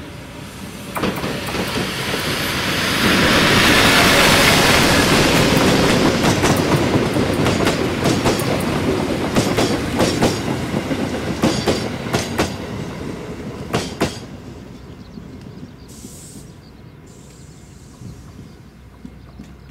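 Chichibu Railway DeKi 500-class electric locomotive DeKi 501 passing close by, towing a Tobu 8000-series train set. The sound builds to its loudest a few seconds in. The wheels of the towed cars then click over the rail joints in quick clusters, and the sound fades away after about fifteen seconds.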